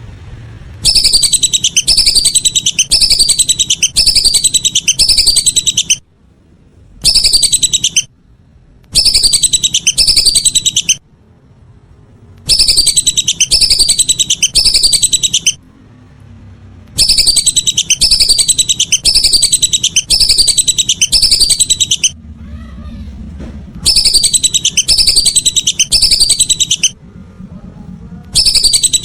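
Lesser whistling ducks (belibis) calling in bouts of rapid, high whistles, each note falling in pitch, about two a second. The bouts are broken by pauses of one to two seconds, some of them dead silent, as in an edited call recording.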